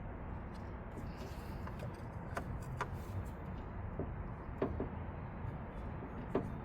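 Scattered light metallic clicks and clinks of a hand wrench and socket working on the water pump bolts, over a steady low background rumble.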